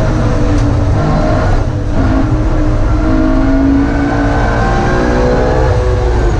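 BMW E46 M3's S54 straight-six engine heard from inside the cabin under hard driving. The revs climb, break off briefly about two seconds in as at a gear change, then build again.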